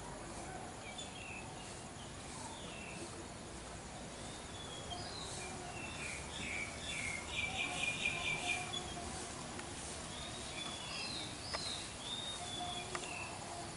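Outdoor ambience with scattered high bird chirps, and a fast run of repeated high chirps about seven seconds in, the loudest sound.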